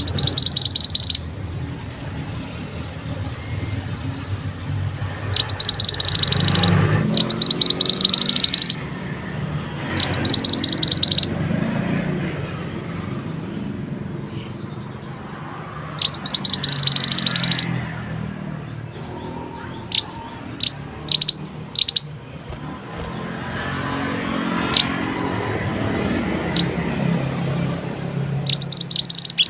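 Mantenan songbird singing: loud, high, very fast trills about a second long, repeated several times, then a run of short sharp single chirps in the later part, over a low steady rumble.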